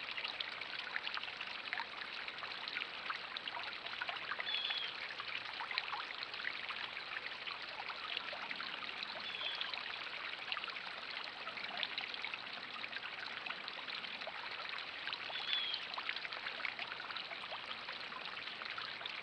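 Steady water noise, like trickling or falling water, full of tiny crackles, with a bird's short high call falling in pitch heard three times, about five seconds apart.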